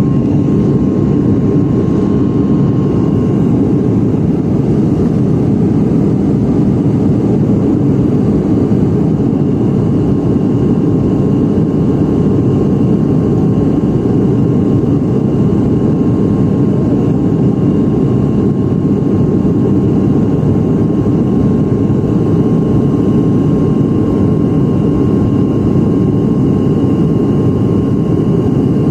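Steady engine and airflow noise heard inside an airliner cabin on the approach to landing, with a thin constant whine over it.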